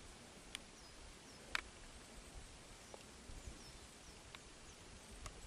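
Quiet outdoor ambience: a few faint high, falling chirps and several soft, scattered clicks, the clearest about a second and a half in.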